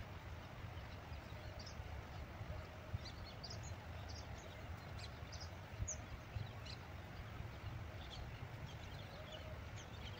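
Outdoor field ambience: scattered short, high bird chirps over an uneven low rumble of wind on the microphone.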